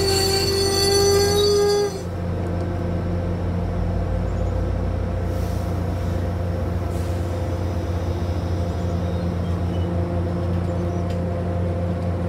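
MBTA commuter rail coaches moving past the platform, their wheels squealing on the rail in a high ringing tone that cuts off about two seconds in. After that there is only the train's steady low rumble.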